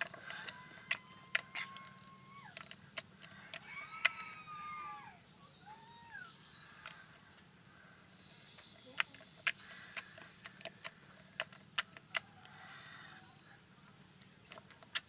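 Soft homemade slime being squeezed and poked, giving sharp clicks and pops at irregular intervals. A few short squeaky gliding tones come in the first five seconds.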